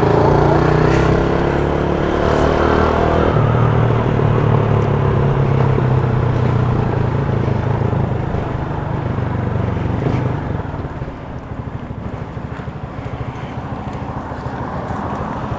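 Motorcycle engine running while riding. The engine note changes about three seconds in and eases off after about ten seconds.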